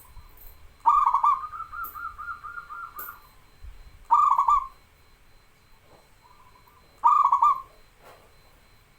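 Zebra dove (perkutut) cooing in three loud, rolling coo phrases about three seconds apart. The first phrase runs on into a longer string of quick, repeated notes.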